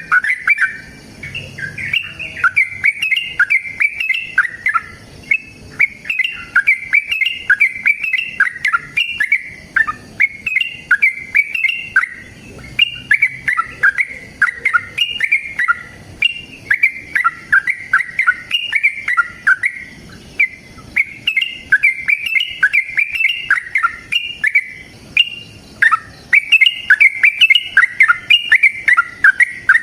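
Yellow-vented bulbul (trucukan) singing a long, fast run of bubbling chirped notes, phrase after phrase with only brief pauses.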